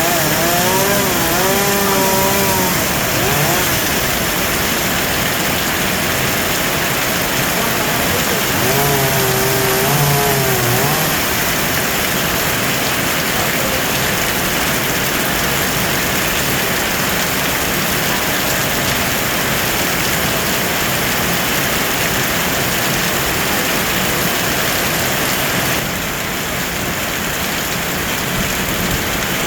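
Heavy rain pouring steadily. A small engine is heard twice over it, its pitch wavering up and down, once at the start and again about nine to eleven seconds in.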